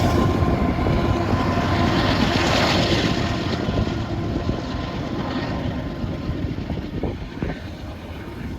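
Freight train rolling past with a steady rumble that gradually fades as it moves away.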